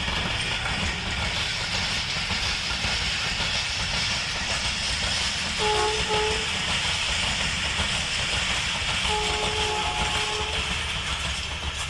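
Awam Express passenger train passing through a station at speed: a steady rumble and rush of wheels and carriages on the rails. A pitched horn sounds twice, about six and nine seconds in, each time as two short notes, the second pair longer.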